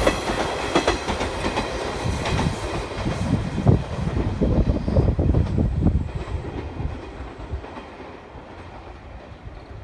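JR 719 series electric train running past, its wheels clattering over the rail joints, then fading away as it recedes about six seconds in.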